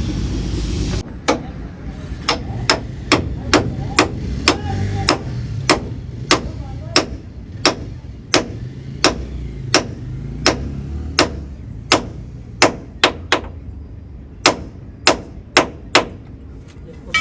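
Hammer blows on steel truck leaf-spring parts: about 25 sharp, ringing strikes at an uneven pace of one to two a second, with a short pause near the end. A steady rumbling noise cuts off abruptly about a second in.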